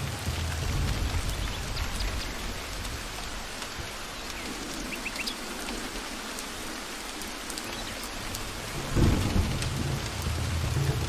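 Steady rain falling in a forest, with low rolling thunder. The rumble fades away in the middle, then a louder peal of thunder breaks about nine seconds in and keeps rolling.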